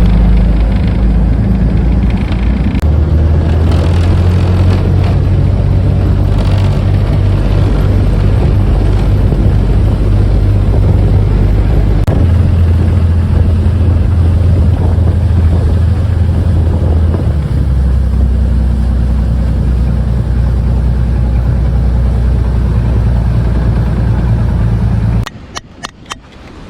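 Engine running steadily, a loud deep drone whose pitch shifts a few times, cut off abruptly near the end.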